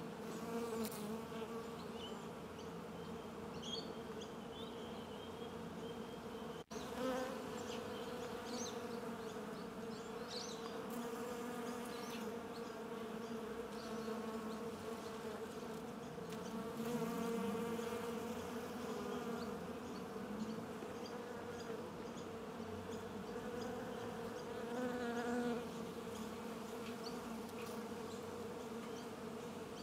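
Honeybee colony buzzing: a dense, steady hum of many bees at an open hive, with individual bees droning louder as they pass, swelling now and then.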